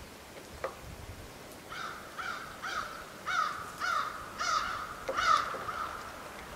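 A bird calling: a run of about eight short, evenly spaced calls, roughly two a second, the loudest near the end.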